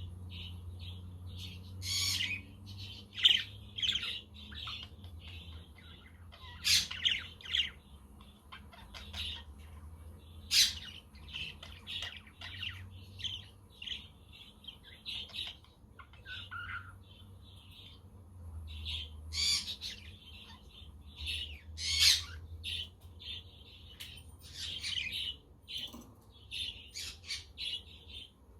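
A flock of budgerigars chattering: a steady stream of short warbling chirps, broken by a handful of louder, sharper squawks. A low wind rumble sits underneath.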